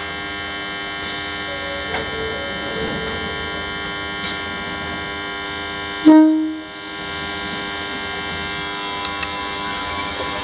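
Steady, many-toned electrical hum of a Joshin Railway electric train, with a short, loud horn toot about six seconds in.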